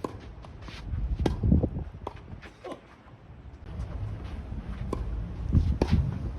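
Tennis balls struck by rackets in a doubles rally, several sharp pops about a second apart, under a heavy low rumble of strong wind buffeting the microphone that swells twice.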